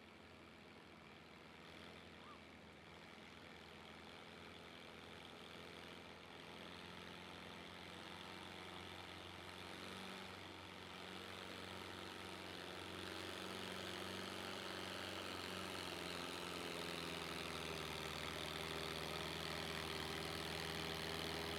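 Heavy vehicle engine at a truck and tractor pull, running at a steady speed and growing steadily louder as it draws closer.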